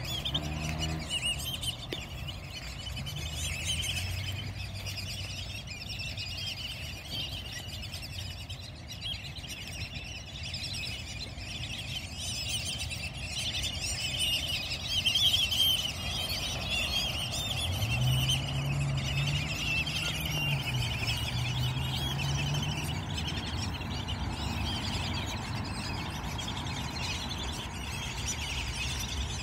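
A flock of water birds squeaking and chirping without pause, many calls overlapping. A low hum comes in twice, briefly near the start and again for a few seconds past the middle.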